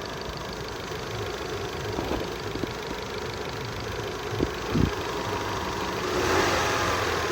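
Mitsubishi 4G63 engine running with a steady whine that the owner puts down to the timing belt drive; it persists with the power-steering, air-conditioning and alternator belts removed and shows only at middle engine temperature, neither cold nor hot. Two short knocks come about four and a half seconds in, and the sound swells louder about six seconds in.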